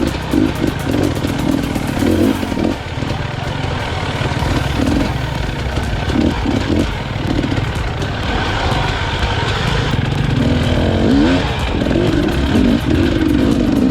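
KTM EXC 250 enduro motorcycle engine running under way, its pitch rising and falling with the throttle, most clearly in the second half.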